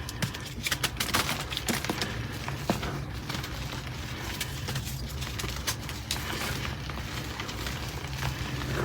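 Gym chalk being crushed and crumbled: a dense run of crunchy crackles for the first few seconds, then sparser crackling, over a steady low hum.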